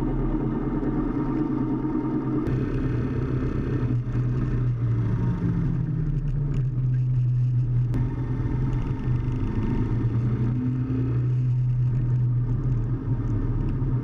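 Motorcycle engine running with road noise. Its pitch rises a little a few seconds in and shifts again later, as with throttle changes while riding.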